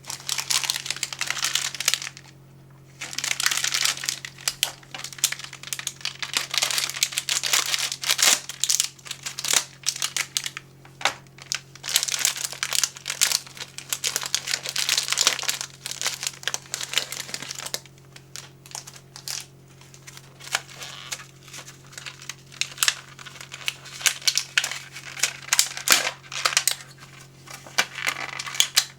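Plastic snack packaging crinkling and crackling as it is handled. It is almost continuous, with a brief pause about two seconds in, then thins out to scattered crackles and clicks over the last ten seconds or so.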